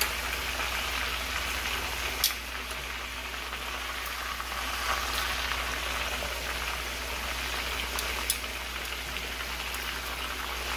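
Chicken thighs frying in hot oil in a cast-iron skillet: a steady sizzle with a couple of sharp clicks, about two seconds in and again around eight seconds.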